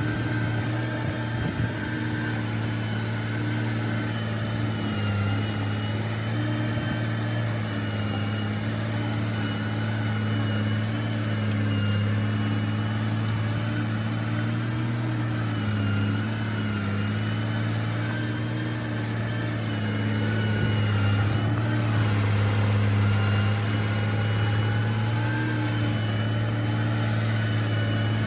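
Heavy earthmoving machine's engine running steadily at a near-constant speed, with a slight swell in loudness about two-thirds of the way through.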